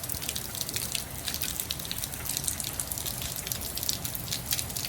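Hail falling: a dense, irregular patter of small ticks.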